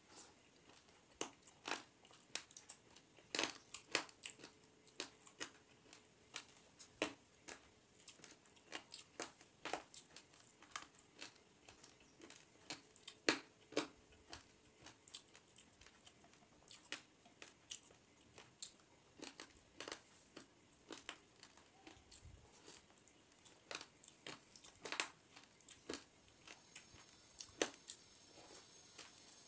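Close-miked eating of rice and curry by hand: irregular wet mouth clicks and lip smacks of chewing, a couple a second, with the soft squish of fingers mixing rice on the plate.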